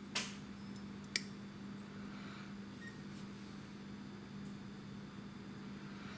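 Two small clicks from plastic model parts and tools being handled on a workbench, one just after the start and a sharper one about a second in, over a steady low hum.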